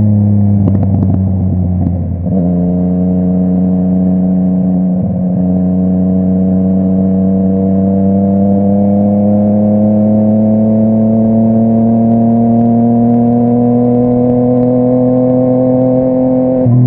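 Yamaha MT-09's inline three-cylinder engine through a full Akrapovic exhaust, under way on the road. In the first two seconds there are a few short crackles and the note steps down, a gearshift. The engine note then climbs slowly and steadily as the bike gains speed, and drops again with another shift at the very end.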